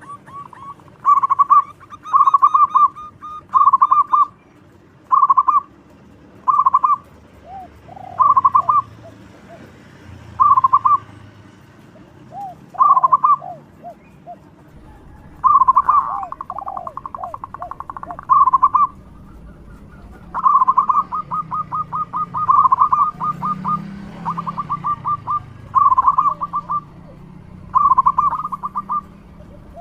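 Zebra dove (perkutut) cooing: short, loud phrases repeated every second or two, some running into fast, stuttering trills.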